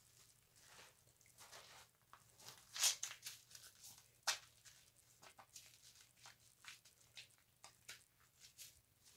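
Loofah scrubbing a wet bar of soap into lather: faint, irregular scratchy rubbing strokes, loudest about three seconds in and again just after four seconds.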